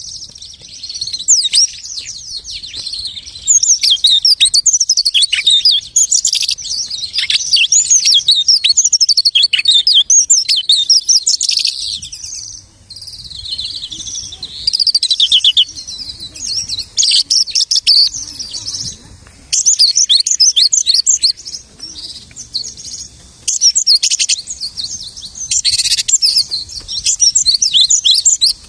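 Lark singing a long, rapid, varied song full of imitations of other birds' calls, delivered in loud bursts of warbles and trills with short pauses between phrases.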